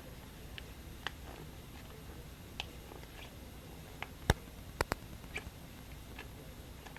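Quiet room tone with scattered small clicks and taps from handling, a sharp click about four seconds in and two more close together just before five seconds.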